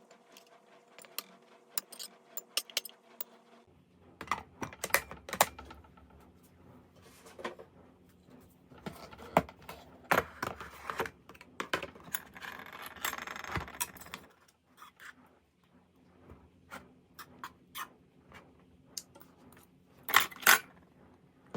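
Scattered light clinks and clicks of tableware: utensils and containers knocking together, with a longer stretch of scraping and handling in the middle.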